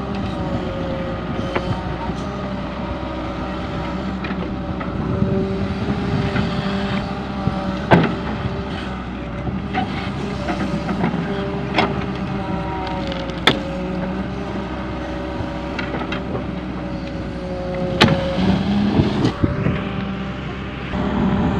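Volvo EW130 wheeled excavator's diesel engine running steadily under work, with a pitched whine over the hum and a few sharp metallic knocks now and then.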